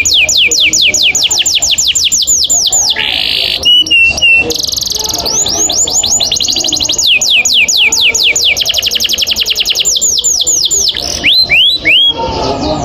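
Domestic canary singing a long roll: fast runs of about eight sweeping, falling whistled notes a second. About three seconds in it breaks into a brief harsh buzz and a short held whistle, then rolls again, and near the end sings a few slower slurred notes.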